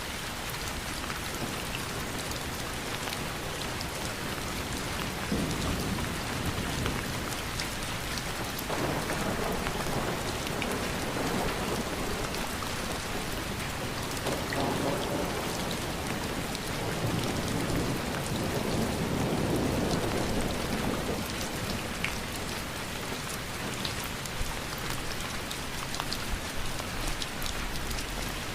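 Steady rain falling, with fine drop ticks over an even hiss. Low rolling rumbles of thunder swell and fade several times through the middle.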